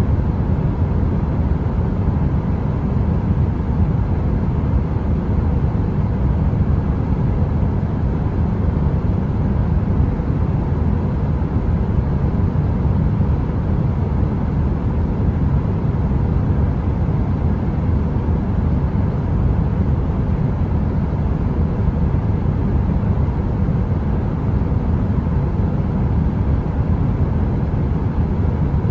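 Space heater's fan running: a steady, deep, even noise that stays low in pitch, with a faint steady hum above it.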